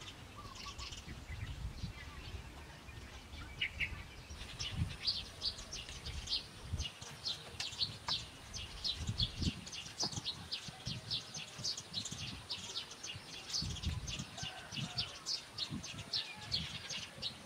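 Small birds chirping in a quick run of short high calls, several a second, starting about four seconds in, with a few soft low thumps now and then.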